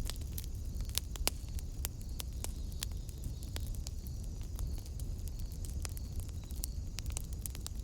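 Wood fire burning in a fireplace: irregular crackles and sharp pops of burning logs over a steady low rumble of the flames.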